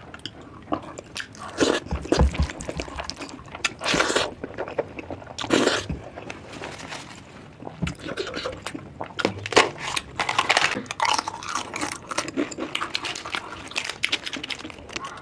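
Close-miked eating sounds: wet chewing and biting of curry, meat and rice, a dense run of small clicks with a few louder short bursts about 2, 4 and 6 seconds in.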